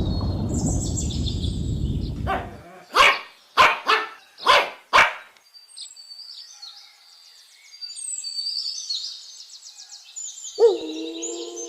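A dog barks five times in quick succession, after a low rumbling noise at the start. Birds then twitter, and near the end a long, steady pitched call begins.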